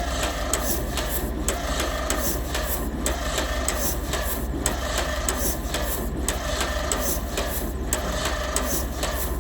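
John Deere A two-cylinder tractor engine being cranked over by its starter in a slow, even rhythm, about two beats a second, without firing: a failed cold start.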